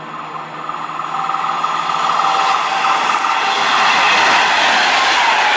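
Class 390 Pendolino electric express train approaching at speed. The rush of its wheels on the rails and the air around it builds steadily louder, and a steady high whine sounds over it for a couple of seconds about a second in.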